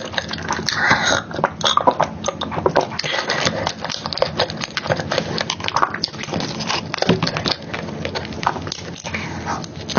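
Close-miked chewing and wet mouth smacking of soft chocolate cake and cream, a dense run of small sticky clicks.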